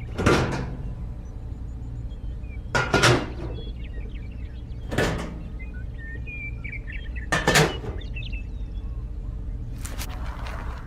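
A thud about every two and a half seconds, five in all, over a steady low hum, with faint chirps in between.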